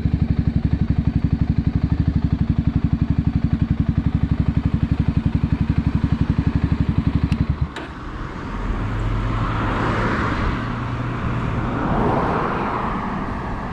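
Voge 300 Rally motorcycle's single-cylinder engine idling with an even, rapid pulse, cut off suddenly about seven and a half seconds in. After that, broad road noise swells and fades twice, like a vehicle going by.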